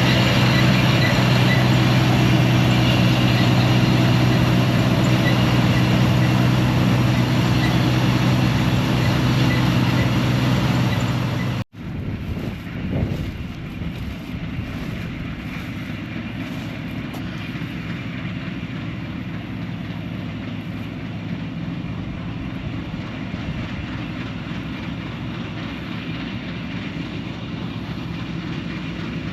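The diesel engine of an old 4400 combine harvester running steadily under load. About twelve seconds in, the sound cuts out abruptly and comes back quieter and farther off, with a single thump, then runs on steadily.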